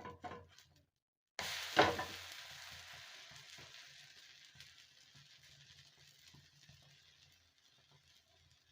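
A hot dosa tawa sizzling. A sharp hiss breaks in about one and a half seconds in, then slowly dies away to a soft sizzle. A few light clatters come just before it.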